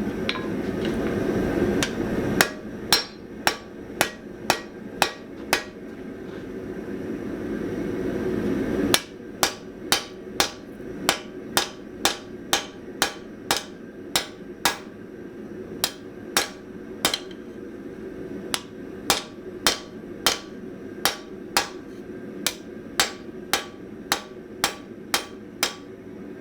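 Hand hammer striking hot spring steel on an anvil, forging a chamfer into the jaw of anvil shears. The blows come in two runs of about two or three a second, a short one and then a much longer one, with a steady rushing noise building between them.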